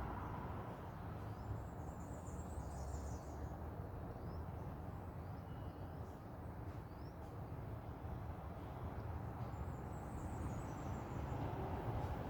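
Small birds chirping: a burst of high twittering a couple of seconds in and again near the end, with single short chirps in between, over a steady low outdoor rumble.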